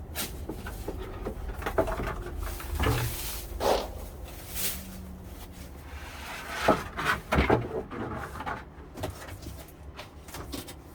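Handling noise as a thin flexible solar panel and its packaging are moved about: scattered knocks, thuds and rustles, the loudest knocks about seven seconds in.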